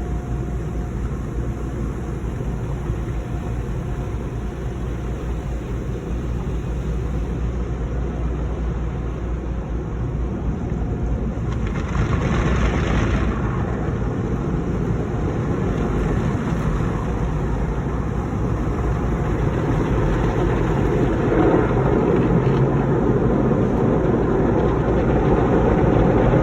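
Automatic car wash running: a steady rumbling wash of noise that slowly grows louder, with a brief surge about twelve seconds in and a louder stretch near the end.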